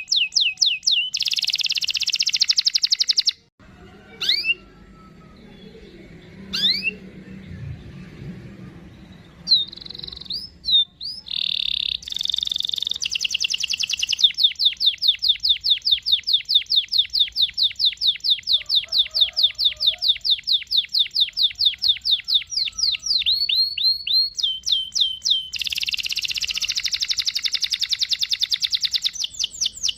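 Domestic canary singing in fast rolls of rapidly repeated sweeping notes, with dense buzzy stretches. It breaks off for a few seconds near the start, then returns with a long, even roll.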